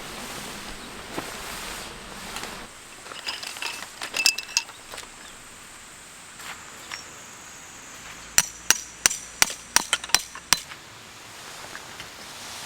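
Metal clinking, then a quick run of about eight sharp, ringing metal strikes. A low hum fades out before them.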